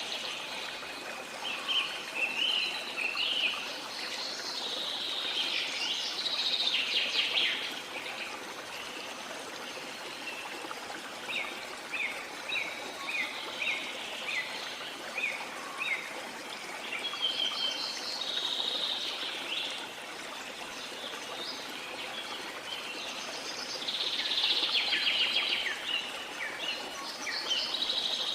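Steady rush of a waterfall, with birds singing over it in several bouts, one a run of short repeated chirps.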